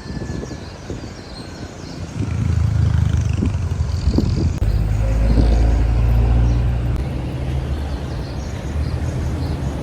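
A vehicle engine running with a low rumble that grows louder about two seconds in and eases off after about seven seconds.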